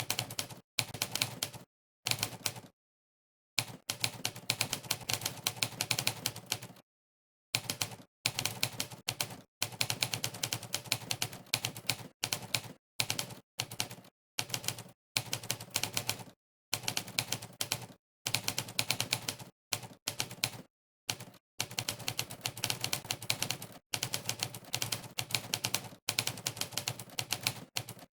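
Monkeytype's typewriter keypress sound effect, one sharp clack per key, in fast runs of typing broken by short pauses of dead silence.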